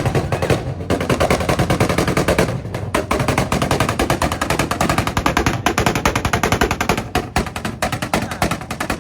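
Modified car's exhaust popping and crackling in a rapid, unbroken string of sharp bangs, "spitting" like a burble tune.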